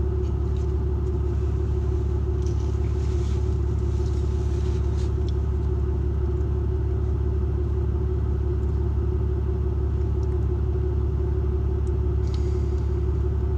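Steady low rumble of a truck running, heard from inside the cab, with an even drone and a constant hum on top.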